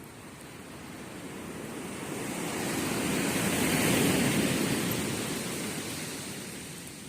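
One ocean wave breaking and washing up the beach, swelling to a peak about four seconds in and then fading away.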